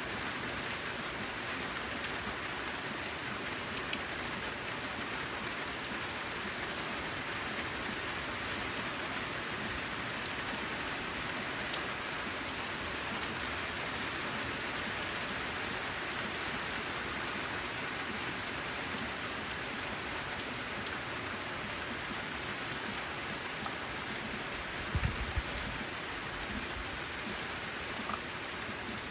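Steady rain falling, an even hiss with scattered individual drops ticking. A brief low thump comes near the end.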